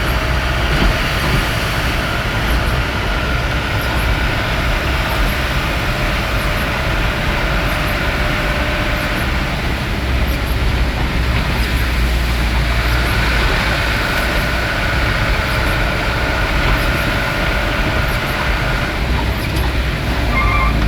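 A vehicle driving steadily: a constant low engine and road rumble with a faint steady whine above it.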